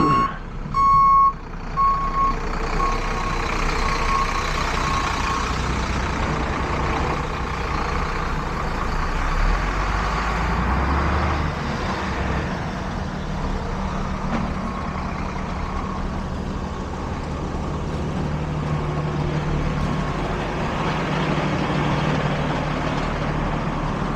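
A truck's reversing alarm beeps evenly, about twice a second, and fades out within the first few seconds. A vehicle engine keeps running underneath a steady hiss of noise, and the engine grows a little stronger about ten seconds in.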